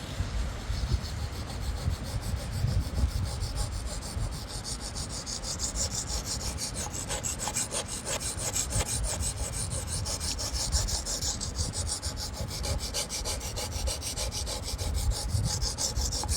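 A knife blade being stroked back and forth on a Wästikivi sharpening stone, a steady run of rapid, even scraping strokes.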